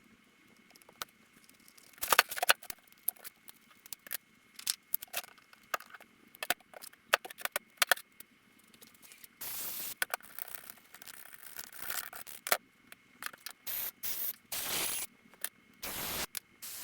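Small metal carburetor parts and hand tools clicking, rattling and scraping as a motorcycle carburetor is taken apart and cleaned, with a few short hisses in the second half.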